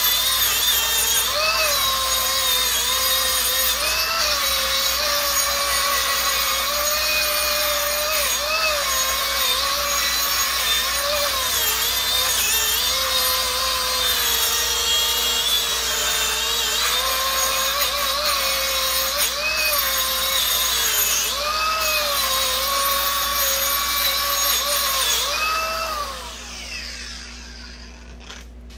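A power tool spinning a wire brush against a rusty wheel hub, scrubbing the rust off the hub face. Its motor pitch dips and recovers again and again as it is pressed on, then it winds down and stops near the end.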